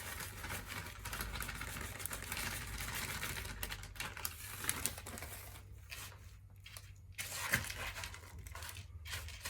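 Crinkling and rustling of a plastic snack packet as crushed Twisties are shaken and handled onto chicken, continuous for about five seconds and then a few short separate rustles.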